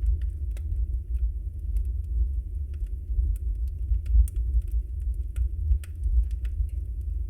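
Wood fire burning in a fireplace: a steady low rumble of flames with scattered sharp crackles and pops from the logs, a few each second, the sharpest about four seconds in.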